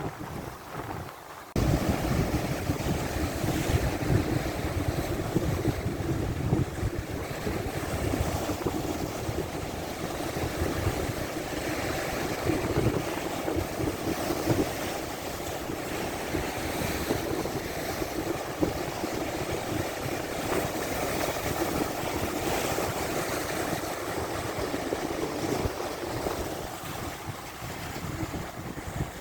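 Big lake waves breaking and surging under strong wind, with heavy wind noise rumbling on the microphone. The noise jumps suddenly louder about two seconds in and stays loud.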